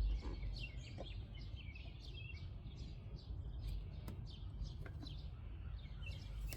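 Small birds chirping repeatedly in the background over a steady low hum, with a couple of faint clicks.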